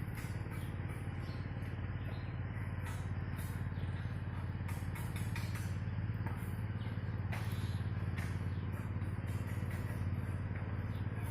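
A steady low engine drone with an even, rapid pulse, unchanging throughout, with faint short chirps or ticks scattered above it.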